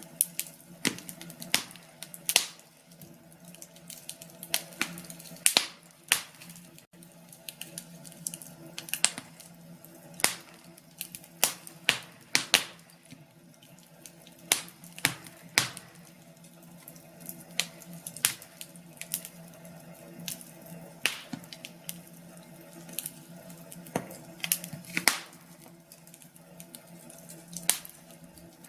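Logs burning in a fireplace, crackling with irregular sharp pops and snaps, some louder than others, over a faint steady low hum.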